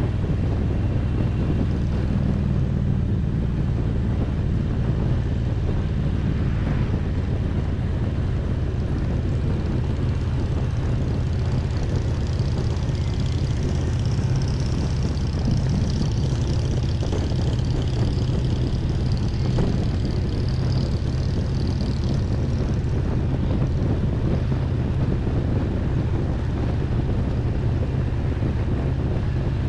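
Harley-Davidson Road Glide's V-twin engine running steadily at cruising speed under the rider, with wind and road noise.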